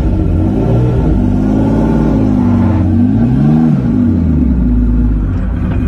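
Aston Martin DB4 GT Continuation's straight-six engine heard from inside the cabin as the car pulls away, the revs climbing and dropping twice.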